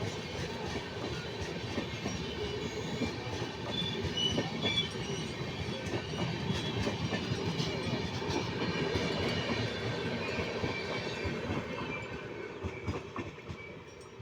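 Indian Railways train running on the rails, its wheels clattering over the track with occasional faint wheel squeal; the sound fades away over the last couple of seconds.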